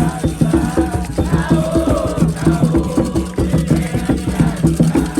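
Voices singing a chant over fast, steady hand drumming, with a rattle shaking along.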